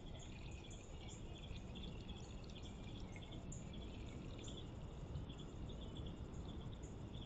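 Faint chirping of crickets and other insects, short repeated pulses, with a few high bird calls mixed in, over a low steady rumble.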